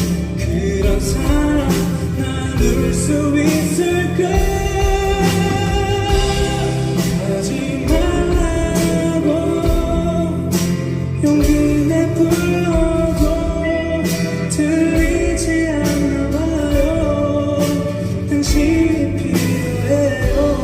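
Live pop-rock band music with a singing voice carrying a wavering melody over guitar and drums.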